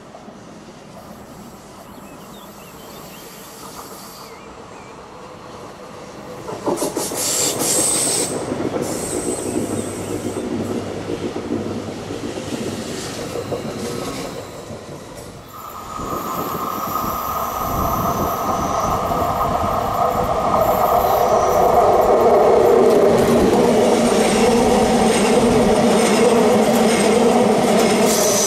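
Two Stadler FLIRT ETR 170 electric multiple units pass on the track. The first approaches with a low rumble that grows loud as it passes about six seconds in. After a break about sixteen seconds in, the second passes close by on a curve with a steady whine over the rumble of its wheels.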